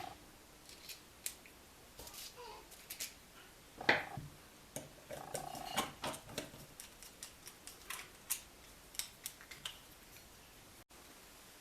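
Light clicks and clinks of tools and small engine parts being handled, irregular, with a louder knock about four seconds in.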